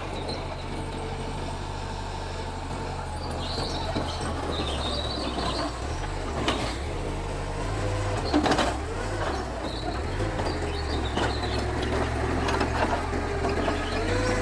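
Bulldozer diesel engine running steadily, its pitch dipping and recovering about halfway through as it takes load, with a couple of sharp metal clanks.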